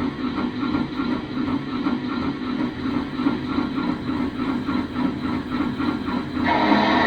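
Lionel RailSounds 5 steam sound system of an O scale Union Pacific H-7 locomotive playing an even, rhythmic steam chuff while running. Near the end a multi-note steam whistle starts blowing.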